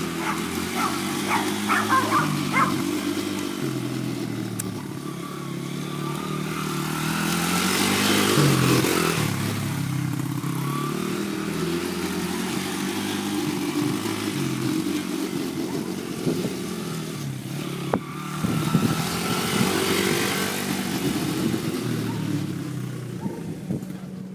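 Dirt bike engine running while being ridden, its revs rising and falling, with louder bursts of throttle about eight seconds in and again just before twenty seconds.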